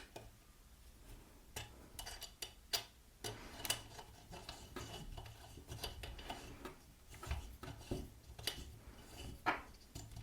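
Irregular light metallic clicks and scrapes of a small Allen key working the grub screws on a pillar drill's column mount, with a few sharper taps scattered through.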